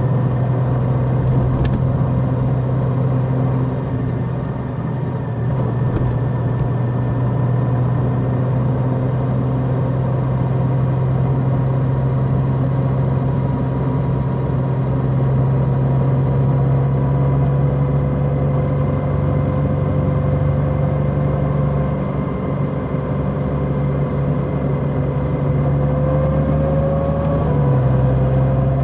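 Large motorcycle engine running steadily on the road, its note rising slowly through the middle. Near the end the engine note drops briefly and picks up again.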